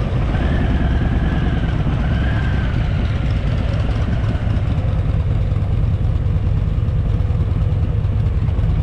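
Harley-Davidson Fat Boy's V-twin engine running at low speed, a steady low rumble.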